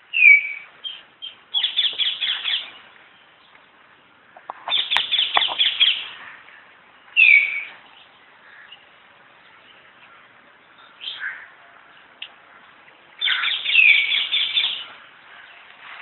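Birds chirping in repeated bursts of short, falling calls, with quieter gaps between the bursts.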